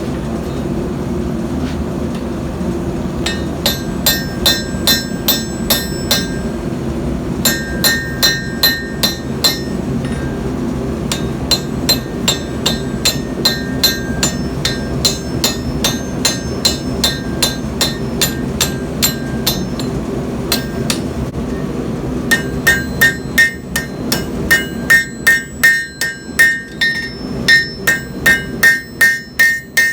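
Hammer blows on hot steel at an anvil, each strike ringing, in runs of about three blows a second with short pauses between them. The blows grow louder and closer together from about twenty-two seconds in. A steady low rumble runs underneath.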